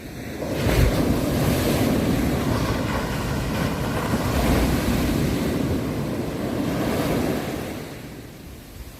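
Ocean waves on a shore: a wave breaks with a sudden surge about half a second in, churns loudly for several seconds, then ebbs away near the end. Wind noise rumbles on the microphone.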